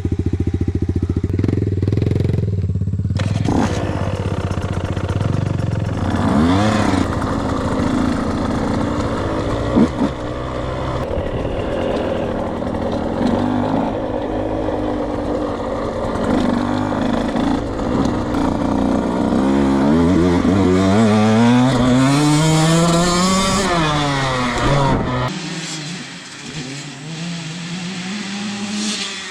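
Dirt bike engine being ridden, its pitch rising and falling with the throttle, with a long climb in revs near the end before it drops away and quietens. A single sharp knock about ten seconds in.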